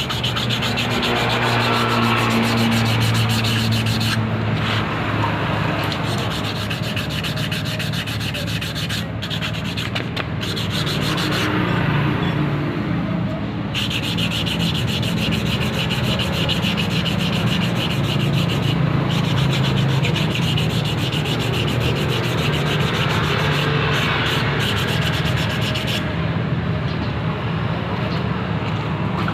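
Small ketinting longtail-boat engine running steadily, a rapid even chatter with a low hum whose pitch wavers a little in the first few seconds.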